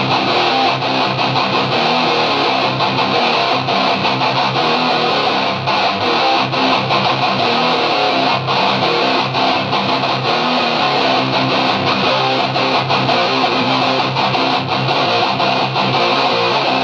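Electric guitar played through the ART DST 8080 tube preamp at high gain, a dense, heavily distorted metal tone played without a break.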